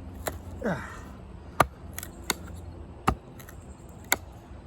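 Blade tip of a Condor Heavy Duty Kukri, a thick 1075 high-carbon steel blade, chopping into a piece of wood, chewing its way in: about five sharp knocks spaced most of a second apart.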